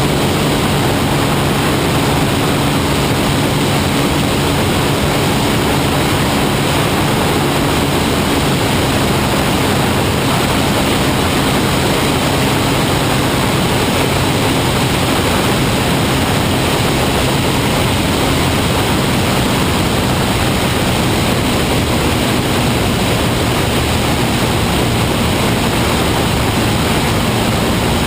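P-51 Mustang's V-12 piston engine and propeller running at a steady setting. A loud, even drone of rushing noise with a low hum of engine tones under it, unchanging throughout.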